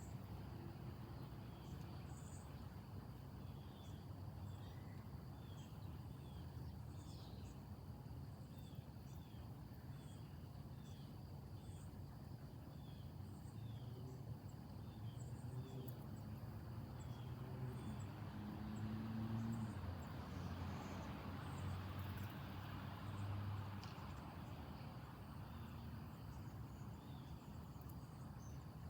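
Late-summer outdoor ambience. Insects drone steadily on a high note, a short chirp repeats about once or twice a second, and a low background rumble swells for a few seconds past the middle and then eases.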